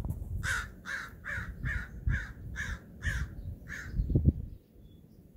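A bird giving a rapid run of about eight harsh, evenly spaced calls, roughly two a second, that stops a little before four seconds in. A couple of low thuds, one near the start and one about four seconds in.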